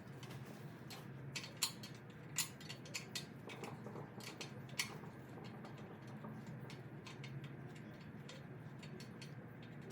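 Scattered light metallic clicks and clinks of small steel parts and tools being handled, over a low steady hum.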